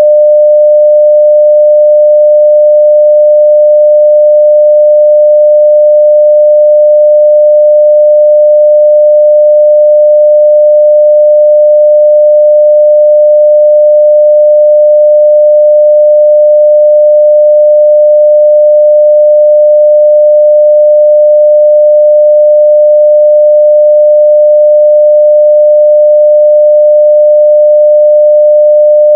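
A steady, loud 600 Hz sine-wave test tone at full level (0 dB), holding one unchanging pitch.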